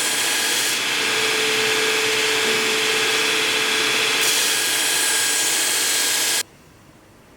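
A power tool running steadily under load, a dense hiss over a steady motor tone, cutting off abruptly about six seconds in.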